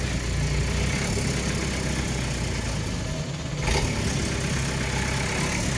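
Truck engine running steadily at low speed, with a brief louder jolt about three and a half seconds in.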